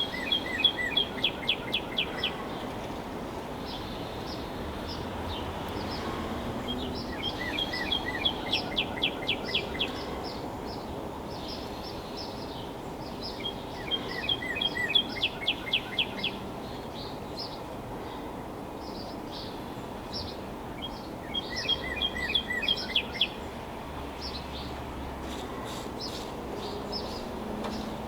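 A songbird singing the same rapid phrase of repeated high notes four times, each run about two seconds long and several seconds apart, over a steady background hiss.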